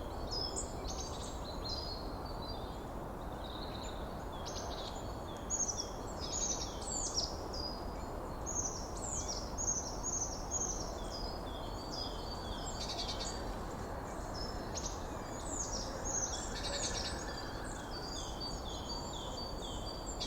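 Several forest birds chirping and singing in quick, overlapping, sweeping notes, with a couple of fast trills, over a steady rushing background noise.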